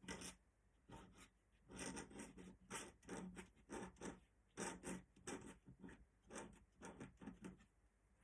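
Faint scratching of an ink pen on paper, a run of short quick strokes at about two a second.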